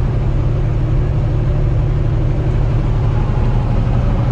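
Steady engine drone and road rumble heard from inside a moving vehicle's cab.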